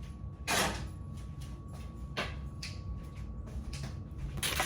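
A few short scraping, knocking handling sounds, about three louder ones spread through a few seconds with fainter clicks between, over a steady low hum.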